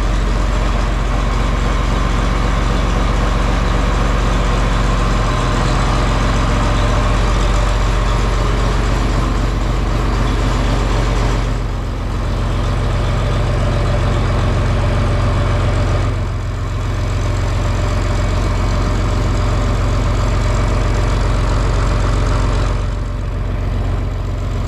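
John Deere 4020 tractor engine running steadily, with three brief dips in level along the way.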